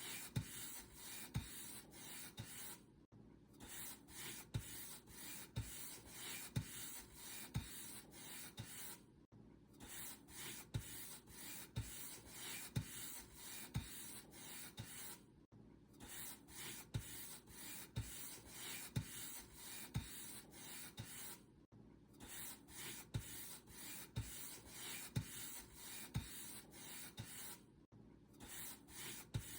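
Paint brush bristles stroking across a surface in a steady back-and-forth rhythm, about two strokes a second, with a brief pause about every six seconds.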